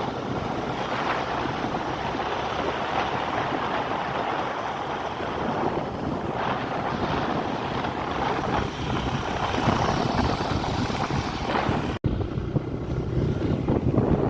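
Wind rushing over the microphone of a moving bike, a steady loud roar with road and vehicle noise mixed in. It cuts out for an instant about twelve seconds in.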